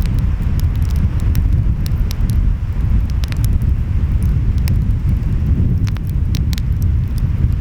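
Wood fire crackling, with irregular sharp pops, over a steady low rumble of ocean surf and wind.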